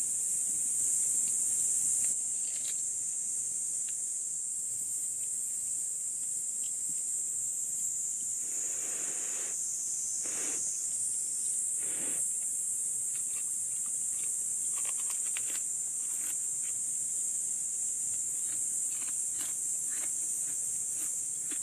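Steady high-pitched insect drone outdoors, with a few brief rustles and scattered light clicks.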